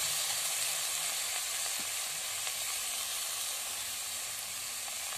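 Hot oil sizzling steadily in a karahi (wok) heaped with freshly added chikni shak greens, potato and brinjal over fish frying beneath; the sizzle eases slightly as the cold vegetables take the heat.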